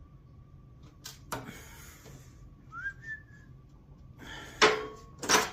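Sheet metal rattling and knocking on a hand brake as a flange is bent down 90 degrees, with two loud metal clanks near the end. A faint steady high tone runs underneath, and a short rising whistle sounds about midway.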